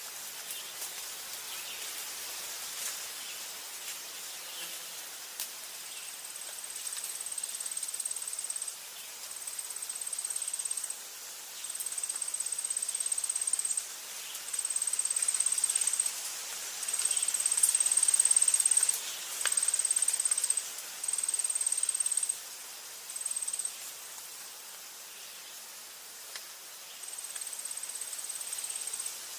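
An insect trilling on one high, steady pitch in repeated bouts of one to three seconds with short gaps, starting about six seconds in, over a soft, even hiss of forest background noise.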